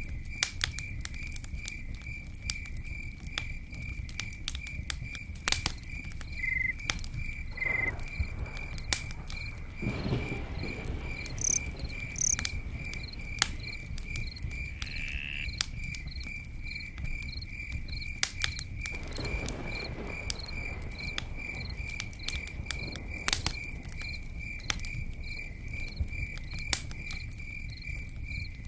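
Campfire crackling and popping over a low rumble of flames, with a cricket chirping in a steady, evenly pulsed rhythm.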